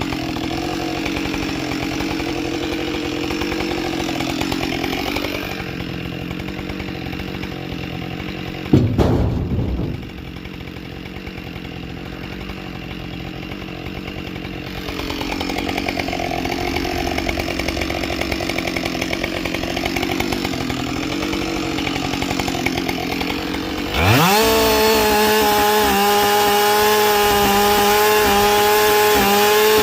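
Husqvarna 572 XP two-stroke chainsaw with a carbide chain, running and cutting wood: the engine's pitch sags and recovers as the chain works through the cut, with a sharp loud burst about nine seconds in. Near the end it revs up quickly and holds a steady, higher pitch at full throttle.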